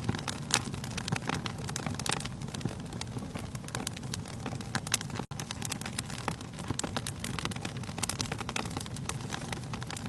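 Wood fire in a fireplace crackling: many sharp, irregular pops and snaps over the low steady rumble of the flames. The sound drops out for a split second about halfway through.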